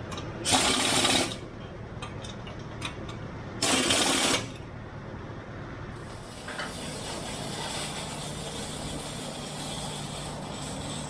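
Two short bursts of MIG welding on exhaust pipe, each under a second and crackling like tack welds, over a steady low shop hum.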